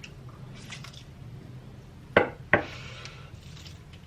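Eating sounds: two sharp clicks about half a second apart, a little past halfway, followed by a brief soft hiss, over a low steady hum.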